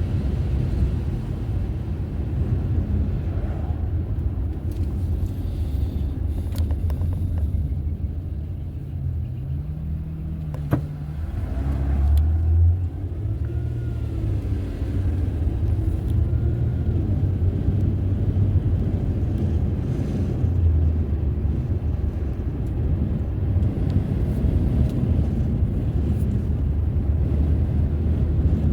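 Car driving: a steady low rumble of engine and road noise. Around the middle the engine pitch rises and falls, and a single short click sounds a little over ten seconds in.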